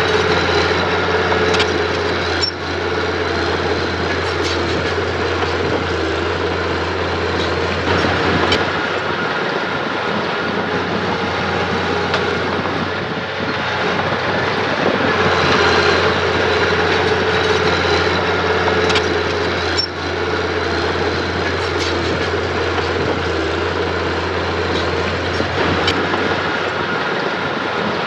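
Mini bulldozer's diesel engine running steadily under load, with a few sharp clanks along the way.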